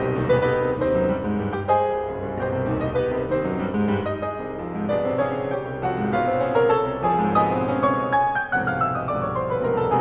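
Solo piano playing fast, dense passagework, with a long run of notes stepping down in pitch near the end.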